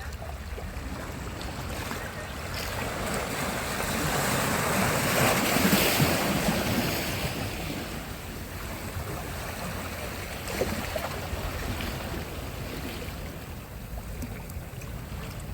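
Sea surf: a wave swells, breaks and washes up, loudest about five to six seconds in, then draws back, leaving a steady wash of water.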